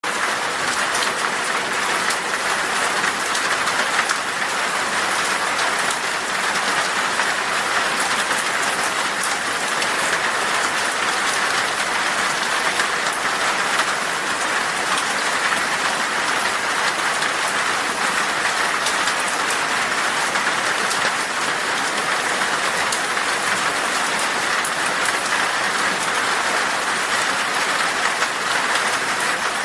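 Heavy rain falling on glass: a steady, dense hiss with many fine drop ticks.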